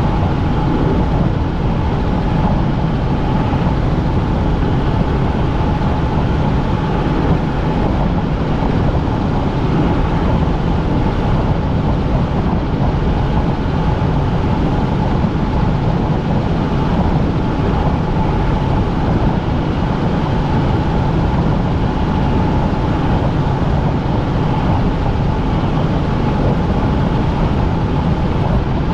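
Helicopter running steadily in flight, heard from inside the cabin: a constant rumble of engine and rotors with a steady whine above it.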